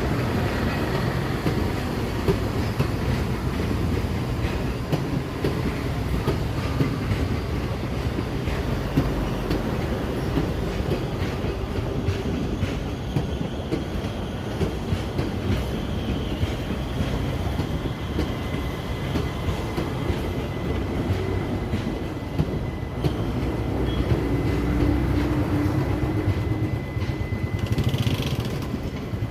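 Passenger train running on the track: a steady rumble with the clickety-clack of wheels over rail joints. A thin high squeal joins in during the second half.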